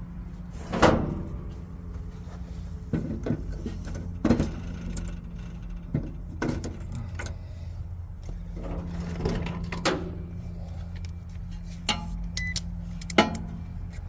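Steady low mechanical hum, with scattered clicks, knocks and clatter of hand work on a refrigeration condensing unit; the sharpest knocks come about a second in and near the end.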